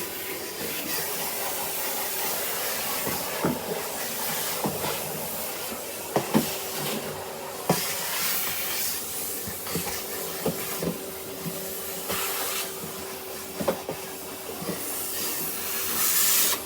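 Henry canister vacuum cleaner running steadily, with scattered clicks and knocks as it is worked over the floor. A thin steady whistle joins in about six seconds in, and the rush of air grows louder near the end.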